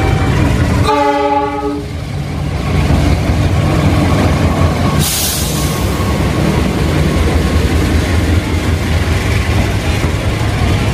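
Diesel locomotive of a passenger train sounding its multi-tone horn once, briefly, about a second in, then running on with a steady low engine rumble and wheel noise. A short hiss comes about five seconds in.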